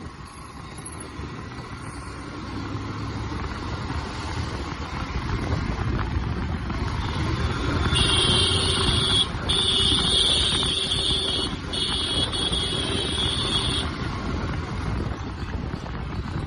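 Motorcycle riding in city traffic, the engine and road noise rising over the first several seconds. About eight seconds in, a vehicle horn sounds in three long blasts over about six seconds.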